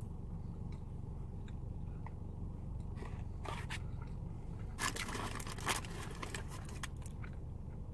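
Close-miked biting and chewing into a plant-based burger, crackly mouth sounds coming in two busier spells about three seconds and five seconds in, over a steady low hum.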